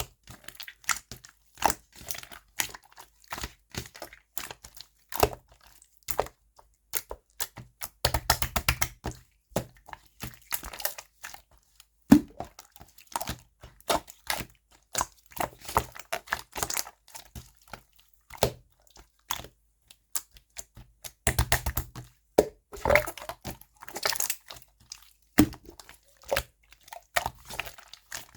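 Yellow slime being squeezed and worked by hand, giving a continuous run of irregular sticky clicks and small pops, busier in two stretches.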